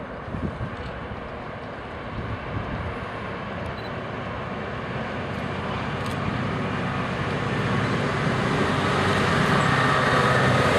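Train approaching through the station, its rumble growing steadily louder, with an engine hum coming up near the end. A couple of low thumps in the first few seconds.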